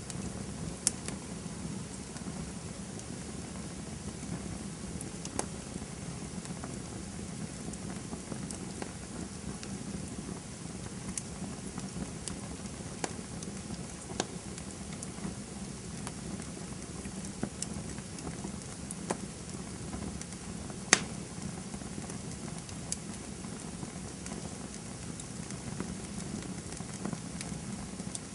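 Campfire burning with a steady low rush of flames and scattered sharp crackles and pops of burning wood, one louder pop about three-quarters of the way through.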